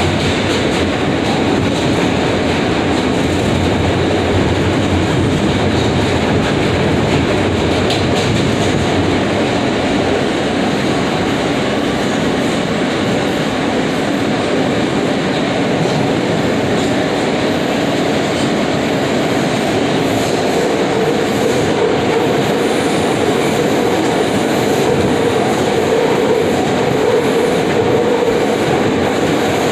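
New York City subway F train running between stations: steady rumble and rattle of the car's wheels on the rails. About twenty seconds in, a steadier hum comes up over the noise.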